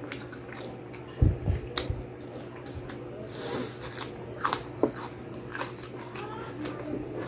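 Close-miked chewing of crispy deep-fried pork knuckle skin (crispy pata): irregular crackling crunches and clicks, with a dull thump about a second in.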